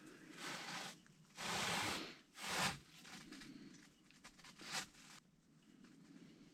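Several short bursts of rustling and scraping, the longest and loudest about one and a half to two seconds in, then a brief sharp one near five seconds in.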